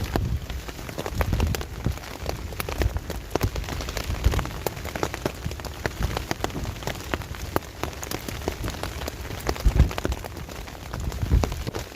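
Rain falling on a basha tarp overhead: many individual drops striking it as sharp, irregular taps over a steady hiss, with a few low thumps.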